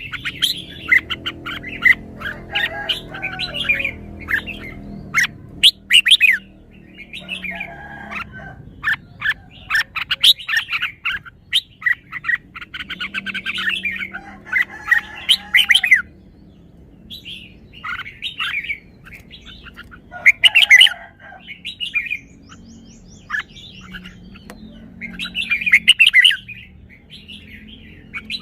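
Red-whiskered bulbul singing: repeated short phrases of bright chirps and warbles, with pauses of a second or two between phrases.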